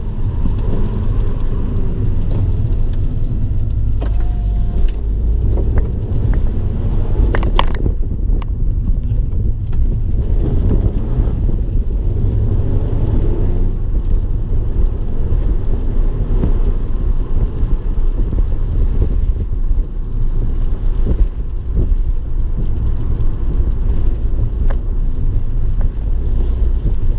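Abarth 595 Turismo's turbocharged 1.4-litre four-cylinder running with the car under way, a steady low rumble mixed with road noise.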